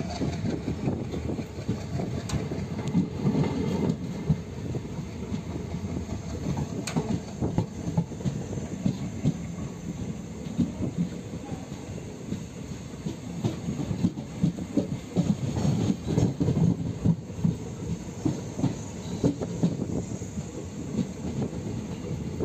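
Coach of a Mangalore express passenger train running on the rails, heard from its open doorway: a steady rumble with irregular clatter and knocks from the wheels.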